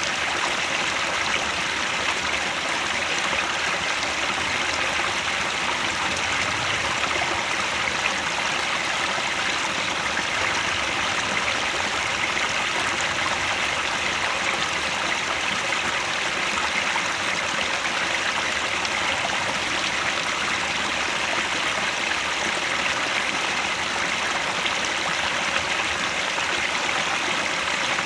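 Headwater mountain stream flowing, a steady continuous rush of water.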